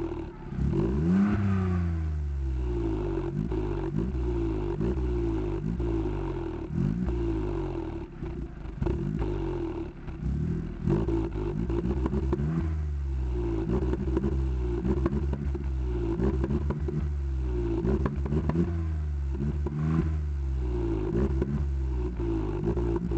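Skoda Fabia Mk1 MPI petrol engine heard at the exhaust pipe, revved in short repeated blips: the pitch climbs and falls back about once a second.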